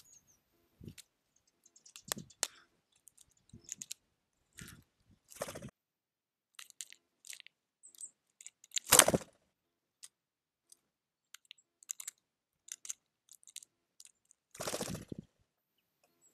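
Small birds feeding at a bird feeder: irregular sharp pecking and seed-cracking clicks and taps. Two longer, louder rustling bursts stand out, the loudest about midway and another near the end.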